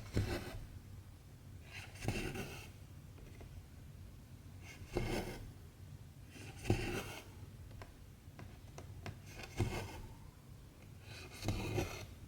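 Cotton embroidery thread drawn through cross-stitch fabric with a needle, a short rasping rub about every two seconds, six pulls in all.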